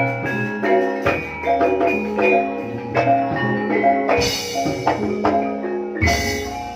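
Live Jaranan gamelan music: bronze metallophones struck in a quick running melody over low sustained tones, with drum strokes and two louder crashing hits about four and six seconds in.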